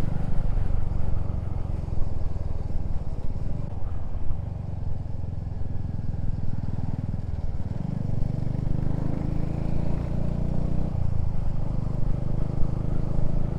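Motorcycle engine running under way, with wind rush on the rider's microphone. The engine note drops and picks up again a little past halfway, and dips briefly once more later.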